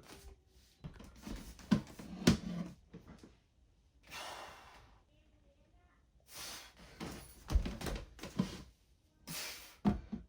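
A few sudden thuds and knocks of equipment during a weightlifting set, with short bursts of hard breathing between them.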